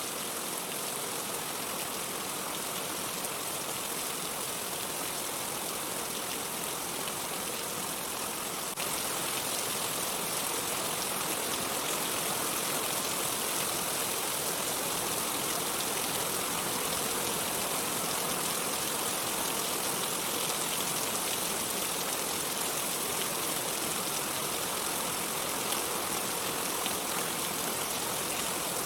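Steady rain falling, an even hiss that gets a little louder all at once about nine seconds in.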